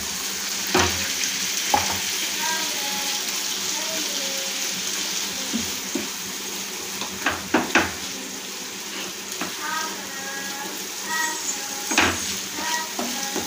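Spice masala with water just added sizzling in oil in a non-stick frying pan while a wooden spatula stirs and scrapes it. The spatula knocks against the pan several times, the loudest knocks about a second in, midway and near the end.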